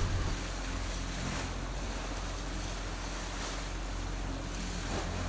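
Wind buffeting the microphone over water rushing past a sailboat under way, a steady rushing noise with a low rumble.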